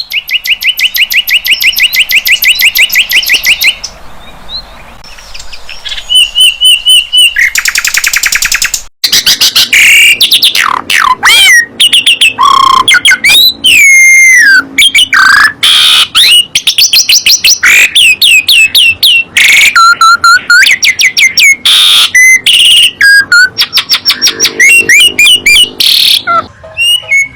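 Spliced recordings of caged songbirds singing: a flycatcher (sikatan londo), Asian pied starling and white-rumped shama. It opens with a fast, evenly repeated high trill for about four seconds. Then come varied loud whistles, swooping glides and chattering phrases, with abrupt cuts between snippets.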